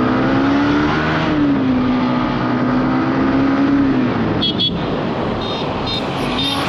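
Yamaha MT-15's 155 cc single-cylinder engine running through its stock exhaust under way: the note climbs, drops about a second and a half in as it shifts up, holds steady, then falls away around four seconds in.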